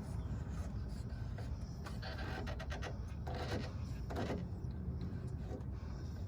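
Hands and a tool working at the fuel filter housing under a diesel pickup: rubbing and small clicks, with a quick run of clicks about two and a half seconds in and louder handling noises soon after, over a steady low rumble.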